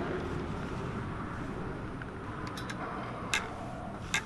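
Small sharp clicks of the choke and throttle linkage springs being unhooked from a small engine's carburetor: a few faint ticks a little past halfway, then two distinct clicks near the end, the last the loudest, over a steady low background rumble.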